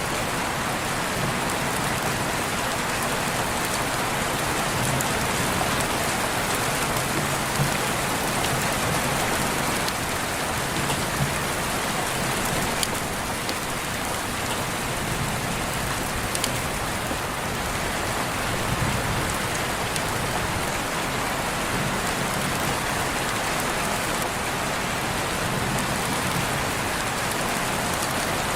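Steady rain falling, an even dense hiss with a few sharper drop ticks now and then.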